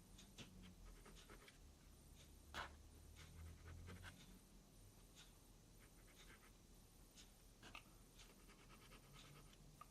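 Near silence: quiet room tone with a few faint small ticks and handling noises, one slightly clearer tick about two and a half seconds in.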